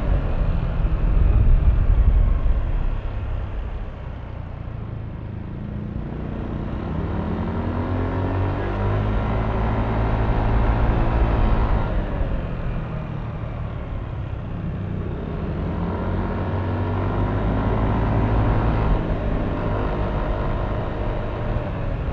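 Yamaha Aerox V3 scooter's single-cylinder engine on a ride, twice winding up in pitch as it accelerates and easing off in between, over a heavy low rumble.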